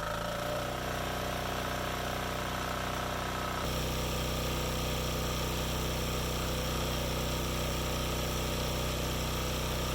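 Yanmar L100V single-cylinder diesel engine running steadily on its generator, settling to speed in the first second, with a slight rise in level about three and a half seconds in.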